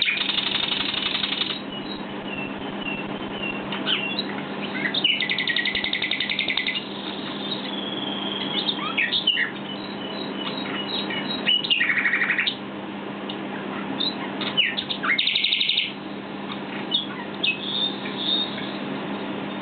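Common nightingale (southern nightingale) singing: phrases of whistled notes and short glides broken by loud, fast rattling trills, about four of them, with pauses between phrases. A steady low hum runs underneath.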